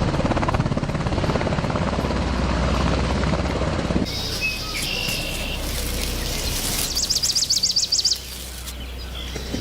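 Helicopter rotor chop for about four seconds, cut off suddenly, followed by birds chirping with high thin calls and a rapid high trill about seven seconds in.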